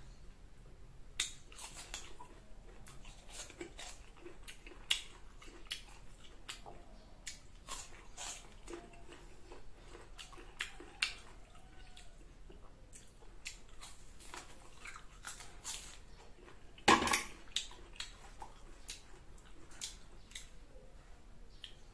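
Close-up chewing and crunching of raw green mango topped with shrimp paste, heard as many short sharp crunches and clicks, with one louder burst about 17 seconds in.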